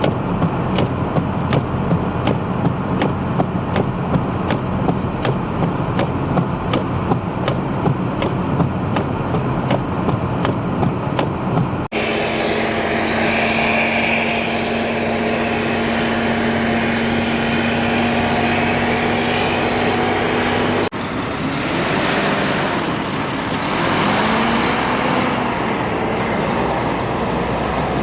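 Heavy vehicle engines running in three separate clips. First comes a steady idle with a regular ticking about twice a second. Then a steady engine drone, and in the last part an engine revving up and down.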